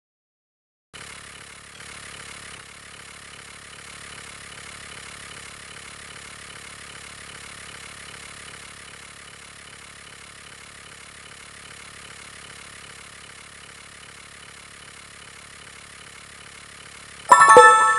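A steady engine hum, like a vehicle idling, starting about a second in. Near the end comes a loud, brief sound with several clear tones.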